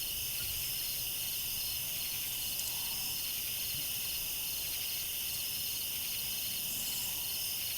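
A chorus of insects, crickets, trilling steadily at a high pitch in a fast, even pulse over a faint hiss.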